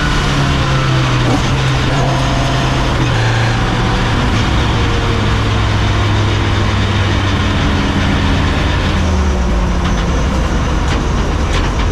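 Peugeot 205 race car's tuned C20XE four-cylinder engine running hard on track in a steady drone, its pitch dropping in steps a few times. The revs are held to about 5,500 rpm, short of its 8,000 rpm redline, to stay under a 98 dB drive-by noise limit.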